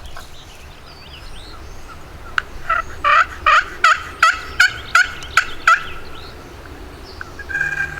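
Turkey yelping: a run of about ten evenly spaced yelps, about three a second, starting a couple of seconds in, then a short single note near the end.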